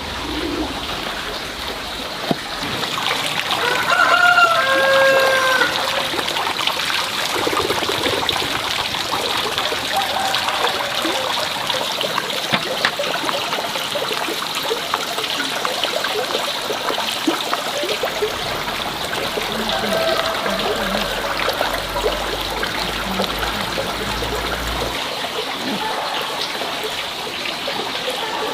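Water trickling steadily, with small clicks and splashes, and a rooster crowing once about four seconds in.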